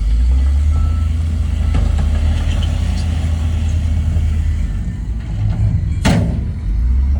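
Heavy earthmoving diesel engine running steadily with a deep drone. About six seconds in comes one short, sharp burst of hiss.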